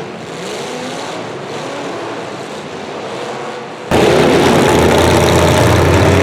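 Demolition derby car engines running and revving, at a moderate level, then much louder after an abrupt jump about four seconds in.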